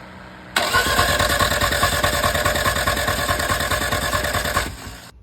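Toyota Celica engine cranked over by the starter motor, a rapid churning that starts suddenly about half a second in and stops near the end without the engine catching: a no-start, which the crew then chases to the distributor rotor.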